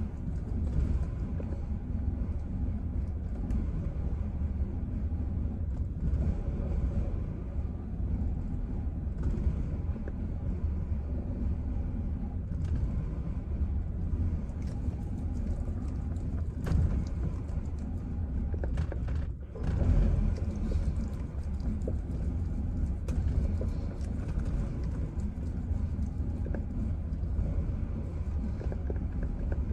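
Chevrolet Silverado engine idling roughly, a steady low rumble, with a short dip in the sound about twenty seconds in. The truck's battery is nearly dead.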